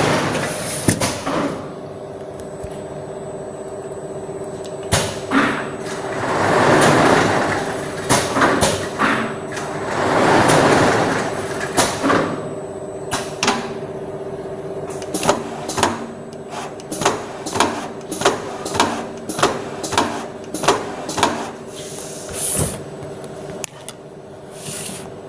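Screen-printing machine running: a steady hum with two long swelling whooshes, then a run of sharp clacks about two a second.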